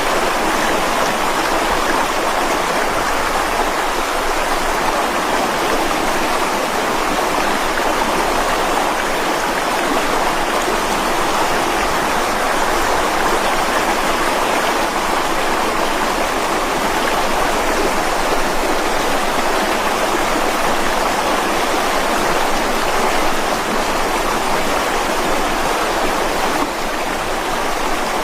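Mountain stream flowing fast over rocks: a steady, even rush of water.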